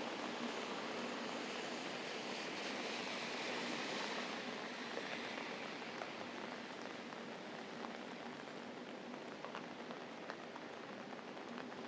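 Steady mid-heavy rain falling, an even hiss that eases off about four seconds in, with scattered raindrops ticking individually after that.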